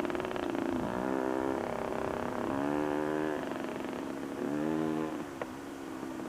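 Motorcycle engine running and revving, its pitch climbing in three surges as the throttle opens and closes.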